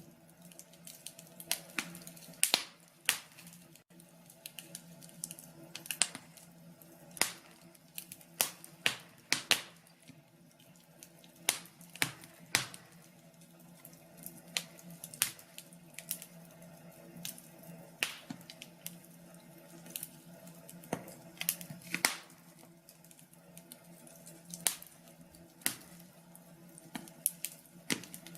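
Wood fire crackling in a fireplace: irregular sharp snaps and pops, a few a second, over a faint steady low hum.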